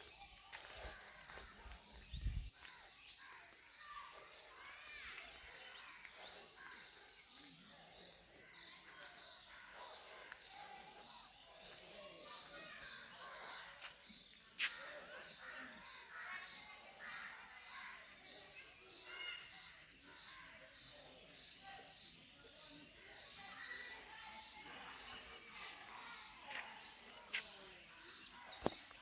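Insects chirring steadily in a high, rapidly pulsing trill, over a scattered background of other outdoor calls. A couple of brief knocks sound about one and two seconds in.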